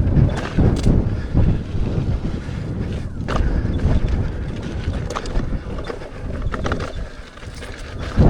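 Wind buffeting the camera microphone of a rider on an electric unicycle on a dirt trail, a low rumble with scattered small clicks and knocks. It eases off for a moment near the end.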